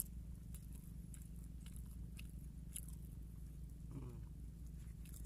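A man chewing a sticky-rice snack, with faint scattered mouth clicks and a brief murmur about four seconds in, over a steady low hum.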